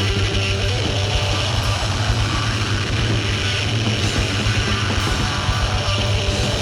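Loud live rock music: a band playing with heavy electric guitar over strong bass, dense and unbroken.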